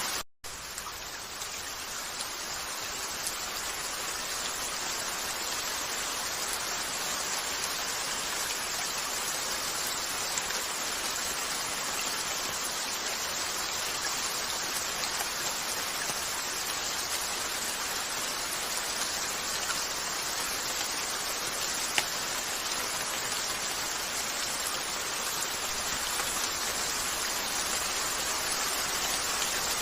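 Steady rain falling on a window, an even hiss with no rhythm. It cuts out for a split second just after the start, and a single sharp click sounds about two-thirds of the way through.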